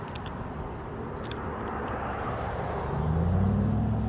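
Low motor hum of an RC bait boat's electric propeller motors spinning up about three seconds in, rising in pitch and then holding steady, over steady outdoor background noise.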